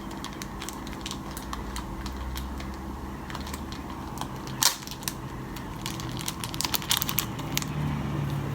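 Hands handling a compact camera and fitting its strap: many small clicks, taps and rustles, with one louder sharp scrape about halfway through and a quick run of clicks a couple of seconds later.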